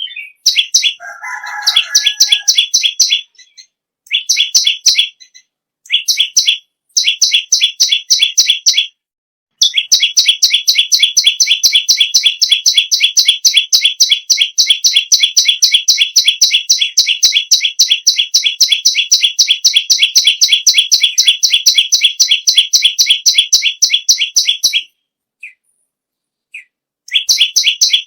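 Perenjak lumut songbird singing: loud, rapid strings of identical high chips, first in short bursts and then in one long unbroken run of about fifteen seconds. A brief lower call sounds about a second in.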